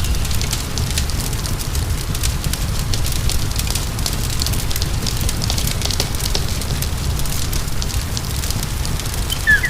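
Wood fire burning in a fireplace, with a steady low rumble and irregular crackling of the firewood. A brief high squeak comes near the end.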